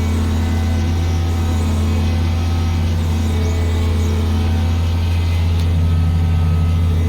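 Farm machinery engine running steadily at constant speed: a loud, unchanging low drone.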